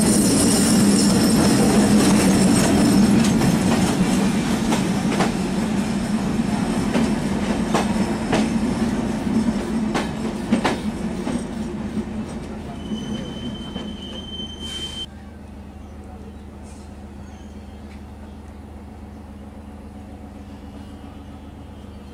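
ALCO diesel locomotive's engine running as it passes close by, then its coaches rolling past with wheels clicking over rail joints, the sound fading gradually. A thin high squeal for about two seconds after some thirteen seconds, then the level drops suddenly to a quieter steady rumble.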